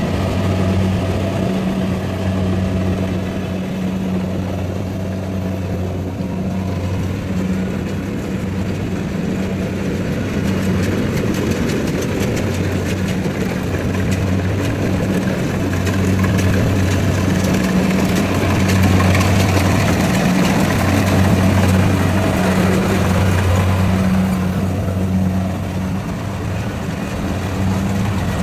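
Rice combine harvester's engine running steadily with a low, even hum, growing a little louder for a few seconds past the middle.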